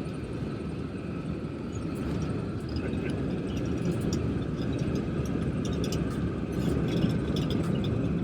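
The de Havilland Dragon Rapide's twin piston engines heard from inside the cabin as a steady low rumble, with light rattling clicks from about two seconds in.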